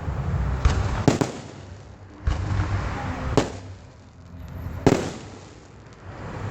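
Fireworks going off: about six sharp bangs at uneven intervals, each trailing off in an echo.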